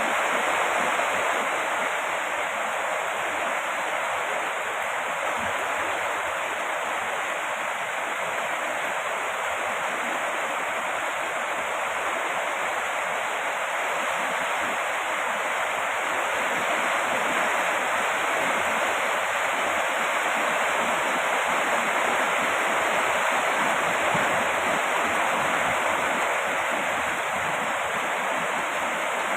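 Steady heavy rain: a dense, even hiss with no separate drops, thunder or other sounds standing out.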